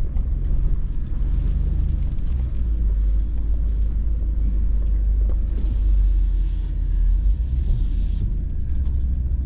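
Hummer H2's V8 engine running at crawling speed on a trail, a steady low rumble heard from inside the cab. A faint hiss rides over it and stops abruptly about a second before the end.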